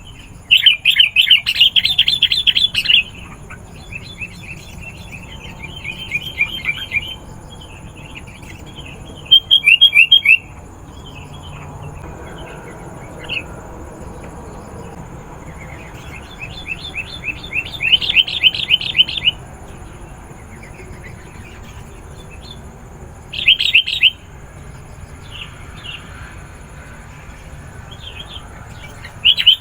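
Sooty-headed bulbul (kutilang) calling excitedly in loud bouts of rapid chattering notes, each lasting one to three seconds, with softer scattered calls between. This is the noisy 'gacor' calling used to lure wild bulbuls.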